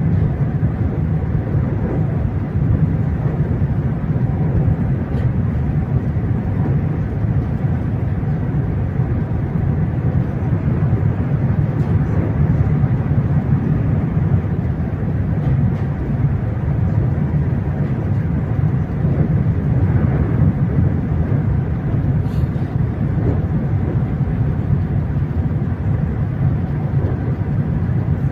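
Steady low rumble inside the cabin of a high-speed train running at cruising speed.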